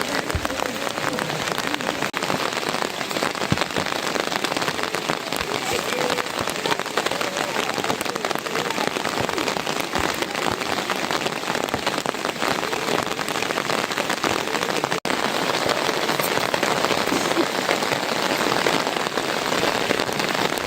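Heavy rain falling steadily, a dense hiss thick with individual drop hits close to the microphone, with a brief cut-out about fifteen seconds in.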